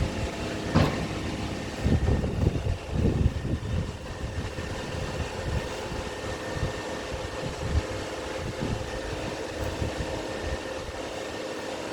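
Steady mechanical hum with several held tones from nearby construction machinery. Over it, hands digging through soil make rustling and soft knocks, loudest about two to three and a half seconds in.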